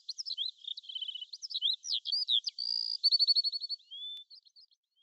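A songbird singing a fast, varied run of chirps, sweeping whistles and trills. A rapid trill about three seconds in is the loudest part, and the song fades out soon after.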